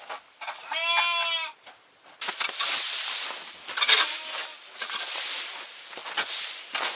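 A sheep bleats once, clearly, about a second in, and a fainter second bleat comes at about four seconds. From about two seconds in there is a dense rustling and scraping noise with small sharp spikes.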